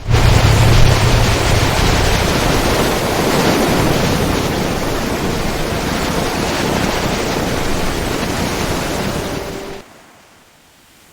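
A steady roar of surf-like water noise that starts suddenly, with a deep rumble under it for the first two seconds, and cuts off abruptly near the end.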